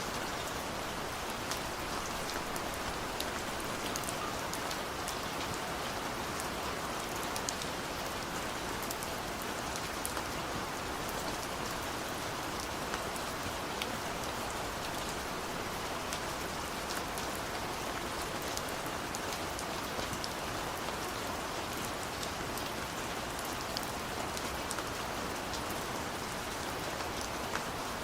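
Steady rain falling, with scattered sharp drops ticking on a surface.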